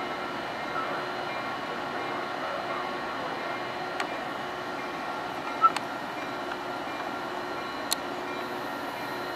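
Bilevel commuter train standing at the platform: a steady hum with several steady tones in it, broken by three sharp clicks, the loudest about halfway through.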